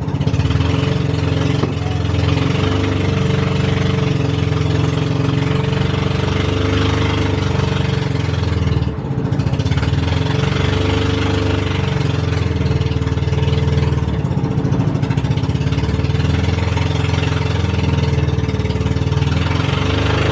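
Boat engine running steadily at a constant speed, with a brief dip about nine seconds in.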